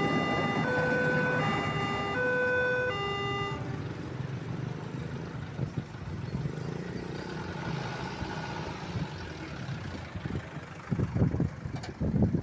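Electronic warning alarm of a railway level crossing, sounding two tones that alternate about every 0.7 seconds, which stops nearly four seconds in. Road vehicle engine noise follows, with louder low rumbling near the end.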